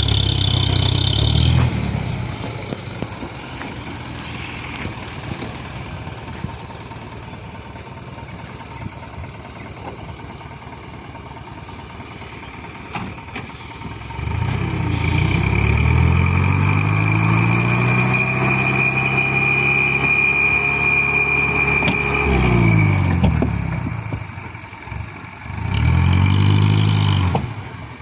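Isuzu dump truck's diesel engine running under load, fully laden with soil. It runs lower for a while, then revs up about halfway through, holds high with a thin whine above it, and drops back down. It revs up and down again, more briefly, near the end.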